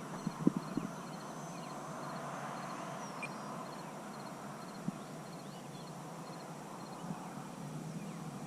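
Faint outdoor background with a high, short chirp repeating at an even pace, and a few soft thumps in the first second and one more about five seconds in.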